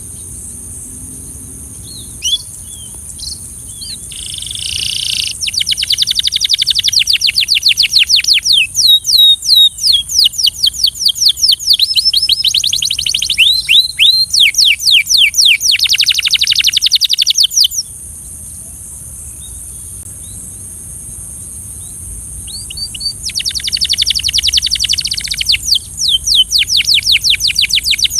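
Belgian canary singing in long rapid trills of repeated downward-sweeping notes, in two bouts with a pause of about five seconds between them. A steady high hiss runs underneath.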